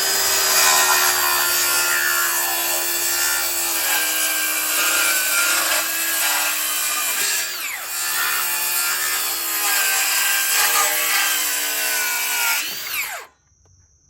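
Cordless circular saw ripping a rough-sawn board along a chalk line, its motor pitch sagging under load. About halfway through it slows briefly and speeds up again, and about a second before the end it is released and winds down.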